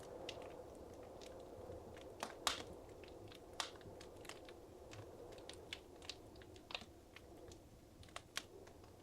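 Wood fire in a fireplace crackling: irregular sharp pops and snaps over a low, steady rumble of the burning fire, with a louder pop about two and a half seconds in.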